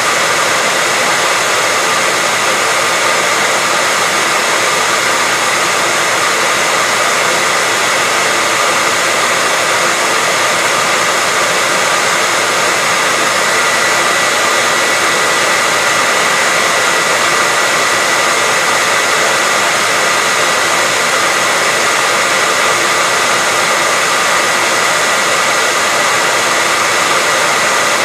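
Hair dryer running steadily on one setting: an even, unbroken blowing hiss with a faint steady whine on top.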